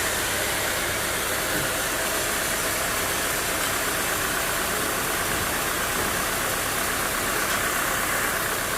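Sawmill machinery running steadily, a constant mechanical drone and noise with no breaks.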